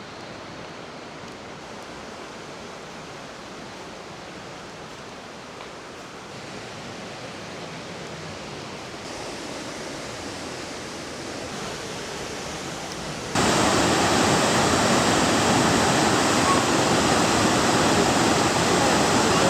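Waterfall rushing: a steady roar of falling water that slowly grows louder, then jumps much louder about thirteen seconds in.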